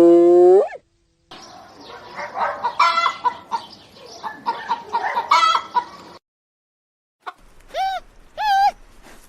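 A hen clucking in a run of short, repeated notes over a noisy background. It is preceded by the end of a long held animal call, and near the end come two short rising-and-falling calls from another animal.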